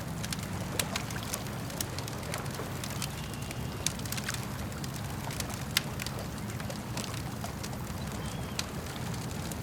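Campfire crackling with scattered sharp pops, one louder pop a little past halfway, over a steady low wash of lake water.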